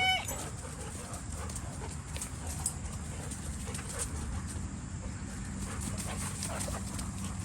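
Dogs playing: faint scattered sounds of dogs moving about over a steady low background rumble, with a short high whine right at the start.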